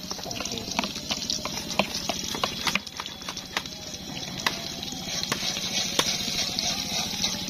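Onions frying in a little oil in a pan: a steady sizzle with frequent sharp crackles and pops.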